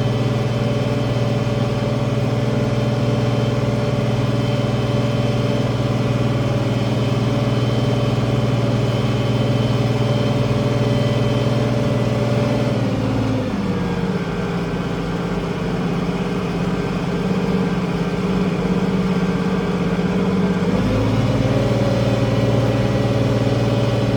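International 1566 tractor's turbocharged six-cylinder diesel running steadily under load. About halfway through, its pitch drops and holds lower for several seconds, then comes back up near the end.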